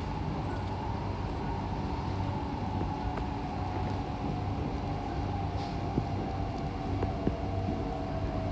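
Interior running noise of an SMRT C151C train in motion: a steady rumble with a motor whine that slowly falls in pitch, and a few light clicks.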